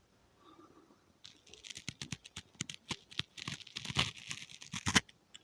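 Ear-cleaning ASMR on a microphone: an ear pick scraping inside the mic's ear, making a dense run of small crackly scratches and clicks that starts about a second in and stops just before the end.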